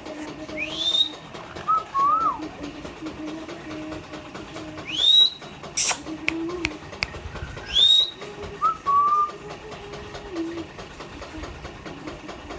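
Indian ringneck parrot whistling: three rising whistles spaced a few seconds apart, with short warbling notes between them. A sharp click sounds about six seconds in.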